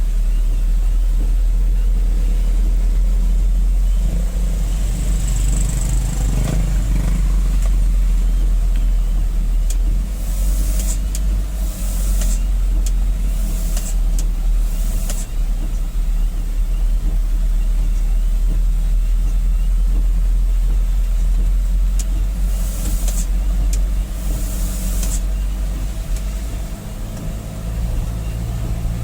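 Diesel dump truck engine running steadily under load on a steep, rough mountain road, with a heavy low rumble. Several short hissing bursts come in two clusters, around the middle and again a few seconds later.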